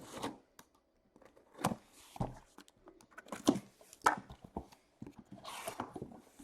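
A sealed cardboard case of trading card boxes being cut and torn open by hand: a string of separate knocks and scrapes of cardboard, with a longer tearing rustle near the end.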